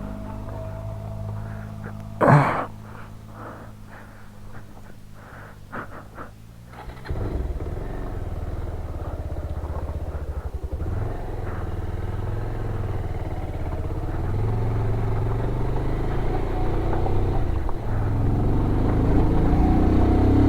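Motorcycle engine idling, with a sharp knock about two seconds in and a few light clicks. About seven seconds in the bike pulls away, and the engine runs steadily and gets gradually louder as it is ridden.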